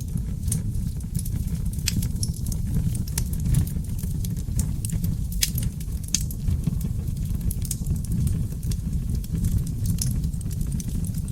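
Wood fire burning in a fireplace: a steady low rumble of flames with sharp, irregular crackles and pops throughout. The loudest pops come about two, five and a half and six seconds in.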